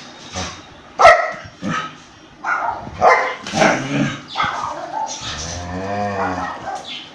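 Dogs barking and snarling in a fight, in several short, sharp outbursts. About five seconds in comes a long, low call that rises and falls in pitch.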